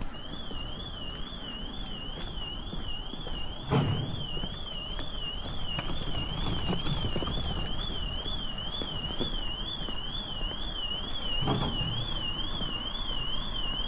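An electronic alarm warbling, its pitch sweeping up and down about three times a second, over a steady low background hum. There are two dull thumps.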